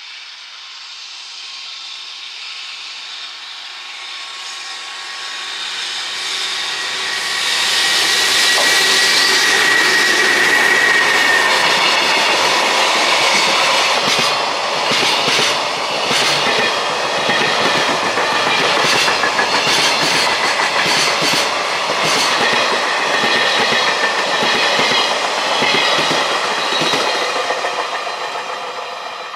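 JR Freight EH500 electric locomotive hauling a container freight train passes at speed, growing louder as the locomotive approaches and goes by with a high whine. It is followed by a long run of container wagons' wheels clattering rhythmically over the rail joints, fading near the end.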